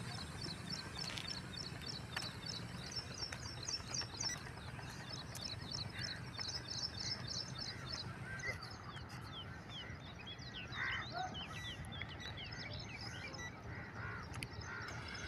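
Birds calling: a fast series of high chirps for about the first half, then scattered chirps, over a steady low hum.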